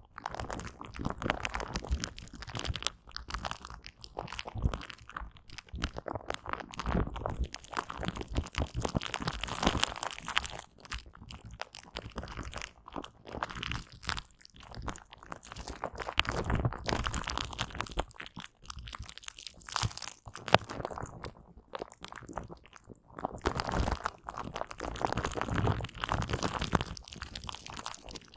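Aloe vera gel being wiped and rubbed: a dense run of sticky, crackling clicks and squishes, broken by a few short pauses.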